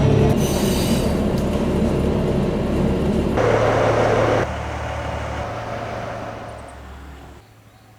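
KiHa 11 diesel railcar running, its low engine hum under steady running noise. A burst of hiss comes about three and a half seconds in and lasts about a second; then the sound dies away in steps and drops off sharply near the end.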